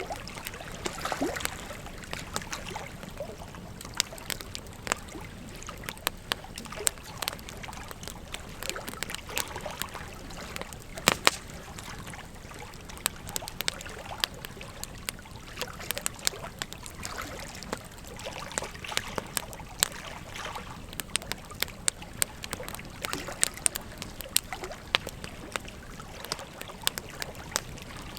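Wood fire crackling and popping with sharp, irregular snaps, over the steady rush of a flowing river.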